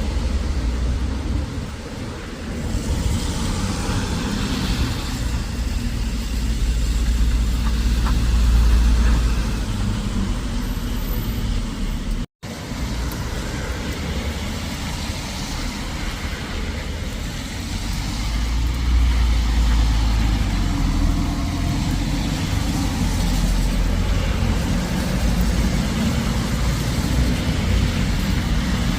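Road traffic: vehicles running and passing, with a deep rumble that swells and fades several times. The sound cuts out for an instant about twelve seconds in.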